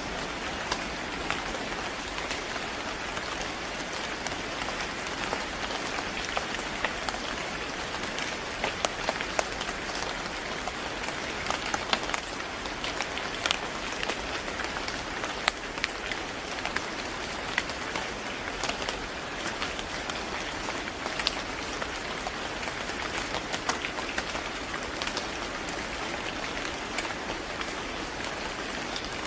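Steady rain falling on a surface, a constant even hiss with many sharp individual drop hits scattered throughout.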